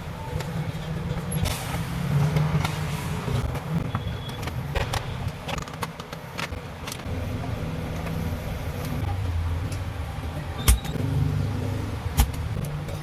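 Scattered sharp clicks and knocks of tools and metal parts as a Kevler KAV-1400 amplifier is taken apart to remove its potentiometers, over a steady low rumble.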